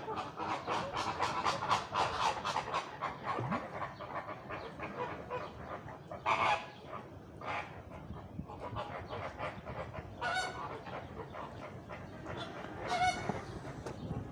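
A flock of flamingos honking: a dense run of rapid goose-like calls for the first few seconds, then scattered single honks.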